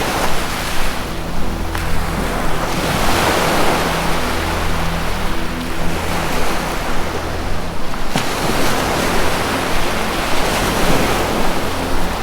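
Ocean surf washing in and ebbing away in slow swells, with soft held low music tones underneath.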